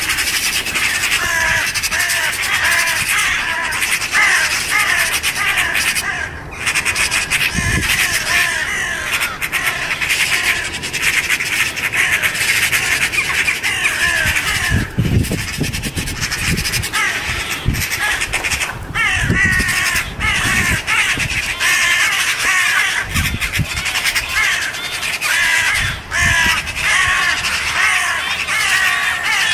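A flock of jackdaws calling continuously with many short, harsh overlapping calls, the alarm and mobbing racket of corvids under attack from a sparrowhawk.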